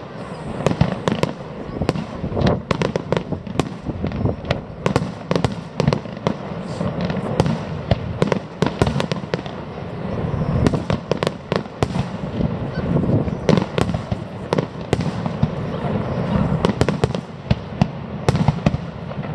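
Aerial fireworks display: shells bursting in quick succession, a dense run of sharp bangs and crackles, several a second, over a continuous low rumble.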